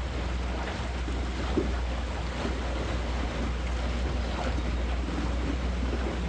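Water noise along the hull of a boat under way, over a steady low wind rumble on the microphone.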